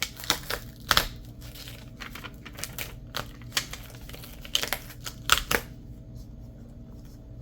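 Irregular sharp clicks and taps of small objects being handled on a tabletop, some in quick clusters, stopping about five and a half seconds in, over a low steady hum.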